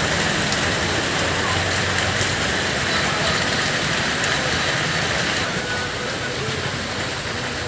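Steady hiss of heavy rain, with the low rumble of a heavy vehicle's engine underneath that eases off after a couple of seconds.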